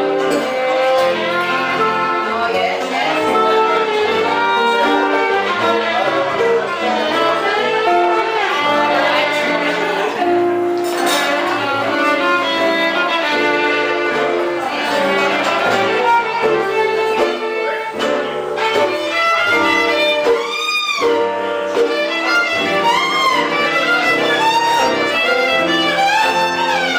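Live gypsy-style band music, a violin playing fast melodic runs with guitar accompaniment; about two-thirds through, the lead line slides up and down in pitch.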